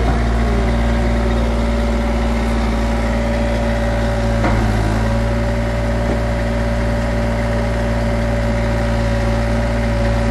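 Mini excavator's Caterpillar C1.8 diesel engine idling steadily, with a constant hum and a steady whine.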